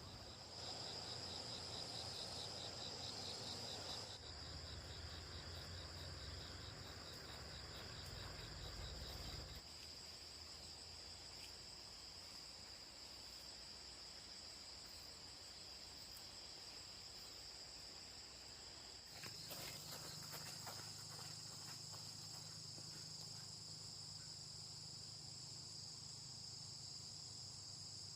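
Faint, steady high-pitched insect chorus. A second, rapidly pulsing chirp sounds over it for roughly the first third, and a low hum comes and goes underneath.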